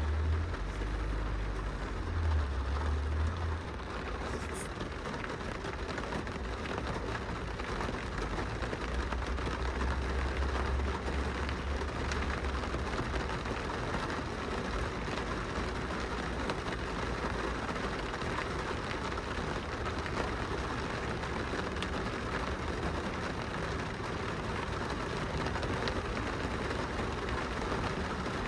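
Steady rain pattering on a glass window, with scattered individual drop ticks. A low rumble swells at the start and again about ten seconds in.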